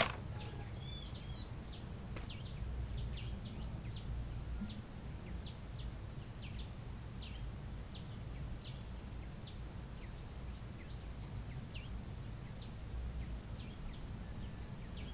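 Small bird chirping over and over, short high chirps about once or twice a second, with a brief warbled call about a second in, over a low steady rumble of outdoor ambience.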